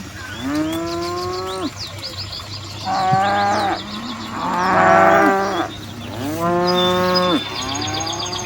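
Cattle mooing: about five separate moos in a row, each a drawn-out pitched call, some rising at the start and then holding.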